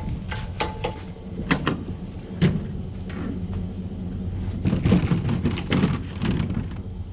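An engine running steadily at idle under a series of sharp knocks and clatter, typical of a truck bed being unloaded and cleaned out.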